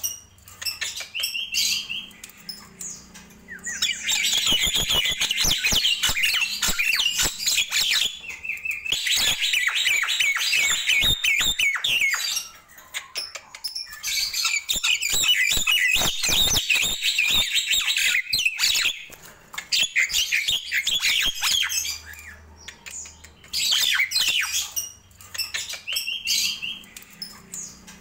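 Nias hill myna calling in long bouts of loud, rapid chattering and whistling notes, broken by short pauses with only a few single calls.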